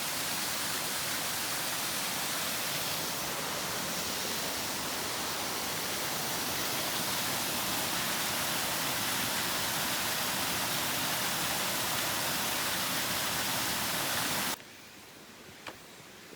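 Waterfall: a steady, dense rush of falling water. It drops suddenly to a much quieter hiss about a second and a half before the end, with one short click soon after.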